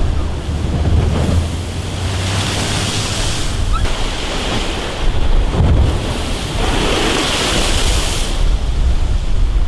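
Stormy sea waves surging and crashing, with strong wind buffeting the microphone. Two big surges of rushing spray swell up, about two seconds in and again from about five and a half seconds in.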